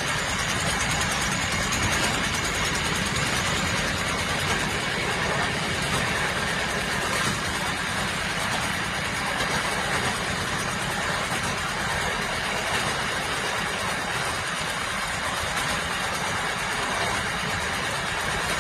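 A train running on its rails, a steady noise that holds at one level without breaks.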